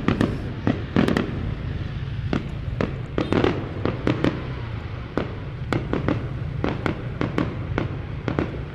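Fireworks going off in a rapid, irregular string of sharp bangs, several a second, over a steady low rumble.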